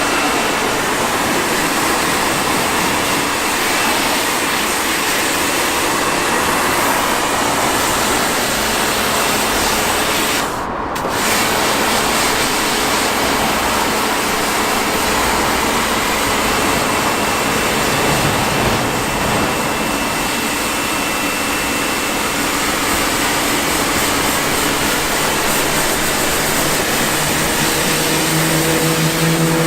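Steady hiss of a water spray hitting a car's bodywork as it is rinsed, cutting out briefly about eleven seconds in.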